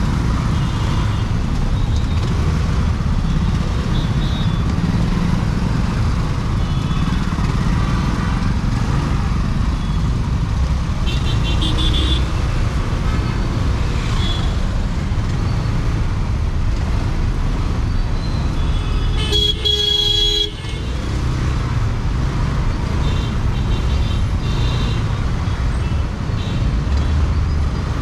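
Scooter ride in city traffic: a steady low rumble of engine, road and wind noise on the microphone, with vehicle horns honking several times, the loudest and longest about two-thirds of the way through.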